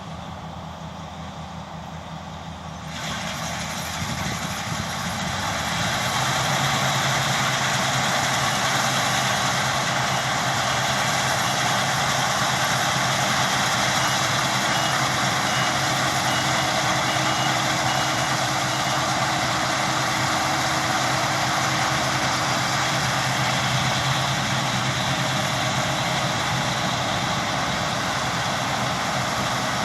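Claas Lexion 660 combine harvester running close by, its engine and threshing noise growing louder over the first few seconds as it approaches, then holding steady. Faint intermittent beeping partway through.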